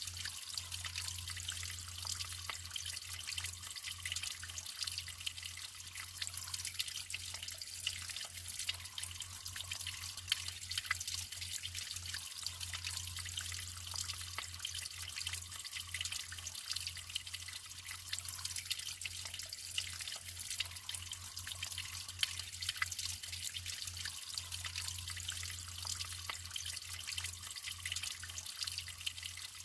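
Naturally flowing water trickling steadily, with a constant patter of small splashes and drips, and a low hum underneath.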